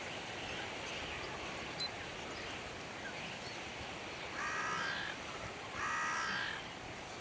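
Outdoor bird sound: a steady wash of distant bird chatter, with two loud, harsh calls, one about four and a half seconds in and one about six seconds in.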